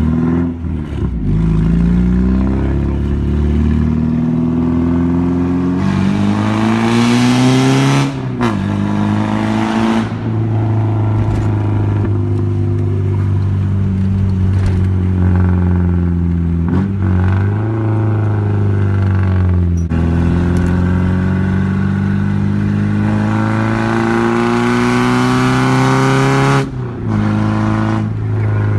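Nissan 240SX with a freshly welded custom side-exit exhaust being driven hard, its engine climbing in pitch under acceleration and dropping at each upshift, about five times.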